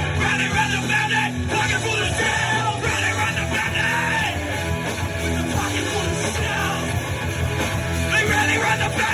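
Rock music played by a band, with a singer yelling and singing over the instruments.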